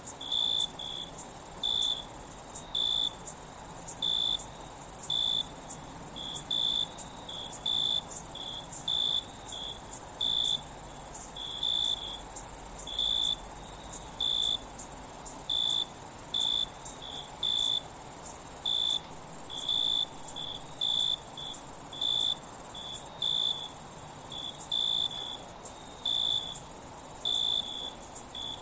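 Crickets chirping at night: short, even-pitched chirps about one to two a second over a continuous high insect trill, with brief dips in the sound every few seconds.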